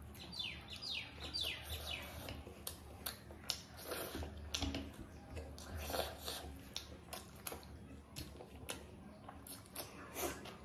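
Close-miked eating sounds: chewing of soft boiled egg and rice with irregular wet mouth clicks and smacks. A few quick falling chirps come in the first two seconds.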